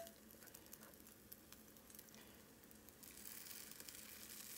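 Faint sizzling and crackling of spoonfuls of ground-beef and egg-white batter frying in hot oil in a heavy cast iron pan, growing louder from about three seconds in as another spoonful goes into the oil. A sharp click sounds at the very start.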